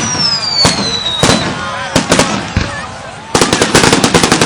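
Fireworks going off: a string of sharp bangs with a falling whistle in the first second, then a rapid run of bangs near the end.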